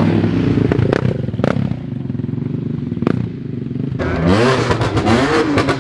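A modified car engine running at a steady speed, then blipped up and down in quick revs with sharp exhaust cracks between.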